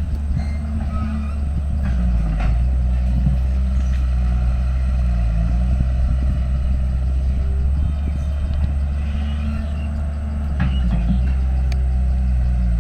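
Diesel engine of heavy earthmoving equipment running under load, its note shifting up and down as the machine works. A few short metallic clanks sound over it.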